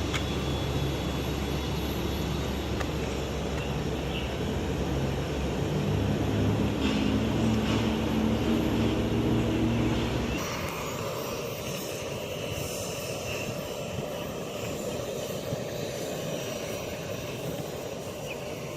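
Twin-engine regional jet taking off, its jet engines running at full power with a rumble that swells and rises in pitch. About ten seconds in it cuts off abruptly, leaving a quieter steady background noise.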